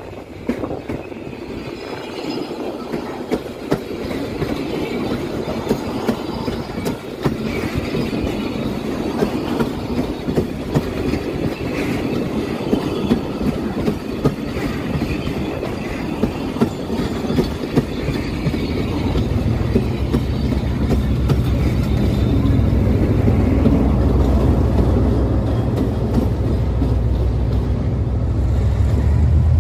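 Passenger train coaches rolling past close by, wheels clacking and clicking over the rail joints. About two-thirds through, the low drone of the diesel locomotive's engine sets in and grows louder as the locomotive reaches the camera.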